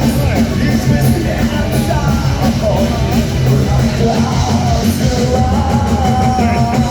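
Heavy metal band playing live with a singer's voice over it, holding one long note near the end.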